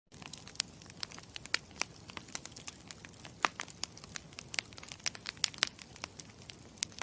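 Campfire crackling: irregular sharp snaps and pops over a low steady rush.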